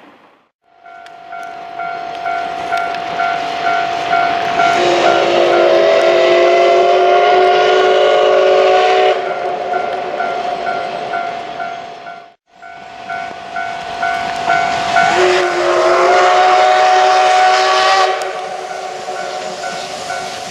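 Steam whistle of the SL Ginga's C58 locomotive blown in two long blasts, each a few seconds of a multi-note chord that bends up in pitch as it starts, over steady hissing steam.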